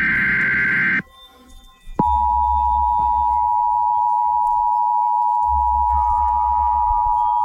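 Emergency Alert System tornado warning broadcast. A burst of the screechy digital data header ends about a second in. After a second's pause the steady two-tone attention signal starts and holds.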